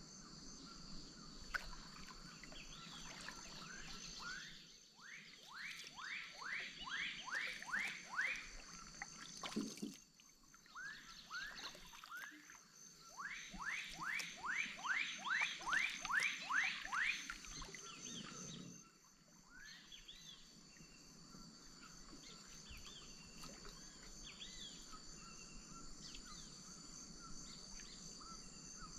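Amazon wetland chorus. An animal gives two runs of about nine clear upward-sliding notes each, roughly two or three notes a second, growing louder through each run. A steady high insect shrill runs underneath, and there is a single low knock in the middle.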